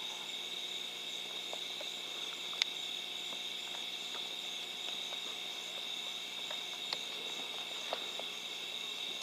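Steady chorus of night insects, a continuous high-pitched drone, with a few faint clicks.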